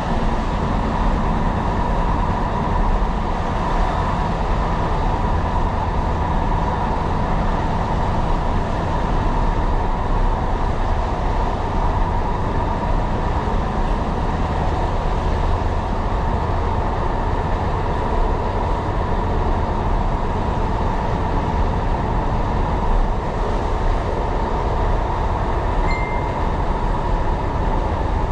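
Tyne & Wear Metro train running along the line, heard on board: a steady rumble of wheels on rails with a constant whine over it. A short, faint beep sounds near the end.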